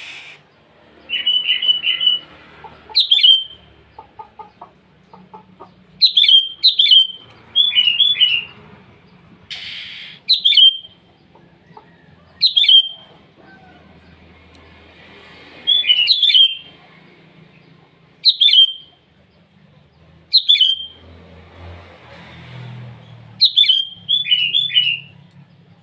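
A sooty-headed bulbul (kutilang) calling to challenge a rival: sharp, whistled call notes repeated every one to three seconds, with a few quick bubbling phrases mixed in.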